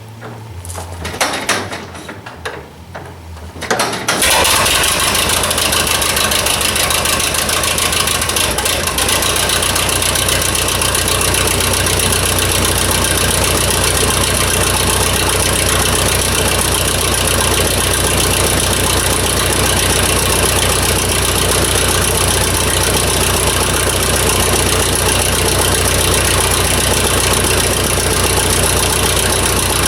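1934 McCormick-Deering W-30 tractor's four-cylinder engine being hand-cranked from cold: a few seconds of uneven sound, then it catches about four seconds in and runs steadily at idle.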